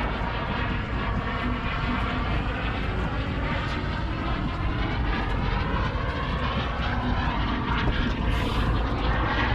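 Small airplane flying by, a steady engine drone whose tone shifts slowly as it passes.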